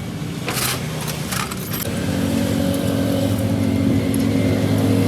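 Heavy truck diesel engine running steadily, getting louder about two seconds in. A few short metallic clinks come in the first two seconds.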